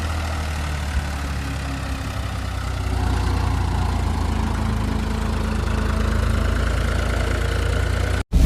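Homemade mini tractor's small engine running steadily with a low hum, getting a little louder about three seconds in, then cutting off suddenly near the end.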